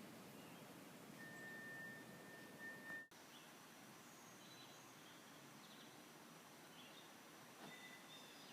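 Faint outdoor ambience. A steady high whistle is held for about two seconds, cut off abruptly about three seconds in, followed by scattered faint high chirps.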